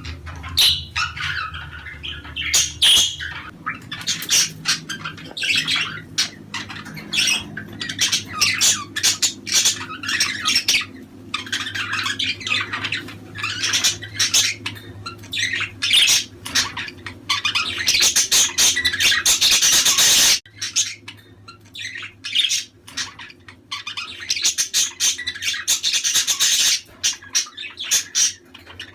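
Many budgerigars chattering and warbling together, with quick chirps and harsh squawks overlapping without pause. About two-thirds of the way through, the chatter swells into a dense, loud stretch that cuts off abruptly.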